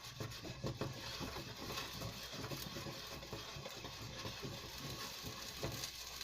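Chicken nuggets frying in hot oil in a pan: a steady crackling sizzle with many small pops.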